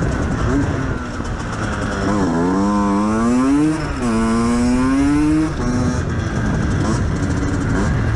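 Motorcycle engine accelerating through the gears: the pitch climbs twice, about two and four seconds in, each climb ending in a sudden drop at an upshift.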